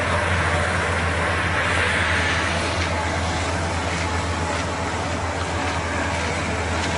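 Steady running noise of a moving vehicle: a constant low engine hum under road and wind noise, with a few faint clicks.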